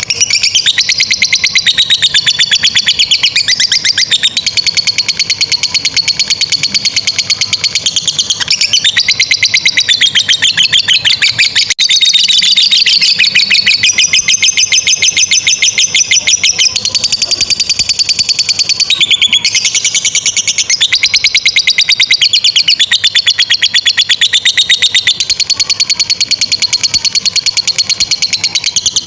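Lovebird singing its long 'ngekek' chatter: a fast, unbroken stream of high, rapid notes that rises and falls in pitch, pausing only briefly every few seconds.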